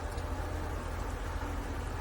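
Steady rain noise with a deep, constant low rumble underneath and faint scattered drop ticks higher up.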